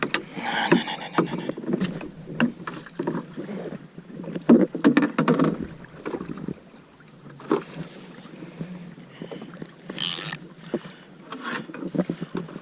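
Water splashing and knocks against the hull of a plastic fishing kayak, with scattered clicks throughout and a short hissing splash about ten seconds in.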